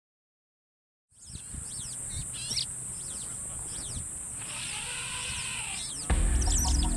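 Birds chirping and calling over a steady high-pitched drone, fading in after about a second of silence. About six seconds in, low music with held tones comes in beneath.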